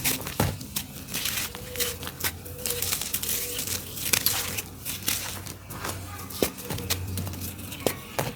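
Dry, earthy dirt clumps being crumbled: a dense, irregular run of small crunches and crackles with a few sharper cracks.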